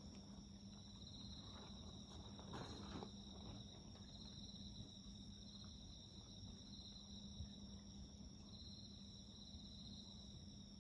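Faint, steady chirping of insects in several pulsing voices, with a few soft crackles from a wood bonfire about two and a half to three seconds in.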